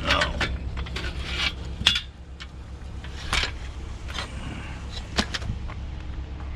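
A vehicle engine running steadily, with a series of sharp knocks and rattles spread unevenly over it; the loudest comes just before two seconds in and another a little after five seconds.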